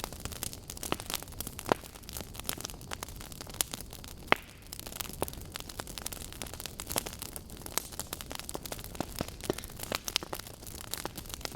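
Burning wood logs crackling: irregular sharp pops and snaps, a few louder ones such as one about four seconds in, over a steady low hiss and rumble of the fire.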